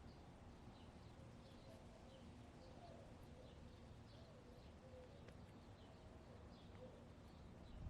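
Faint backyard ambience: small wild birds chirping in short, high, repeated notes about twice a second, over a hen's soft, wavering low murmur and a low wind rumble.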